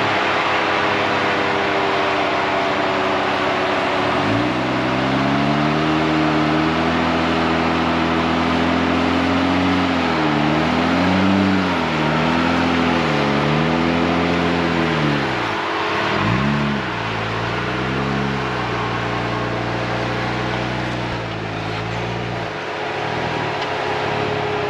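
An off-road vehicle's engine rising in revs about four seconds in, then revving up and down several times under load as it crawls over rocks, and settling back near the end, over a steady hum.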